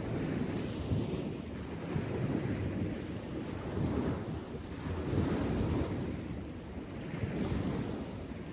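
Wind buffeting the microphone outdoors, a low rumbling rush that rises and falls in gusts.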